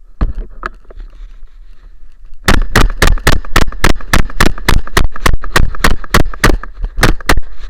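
Rapid semi-automatic gunfire: about two dozen sharp shots in quick succession, roughly five a second. It starts a couple of seconds in, and there is a brief gap before the last two shots.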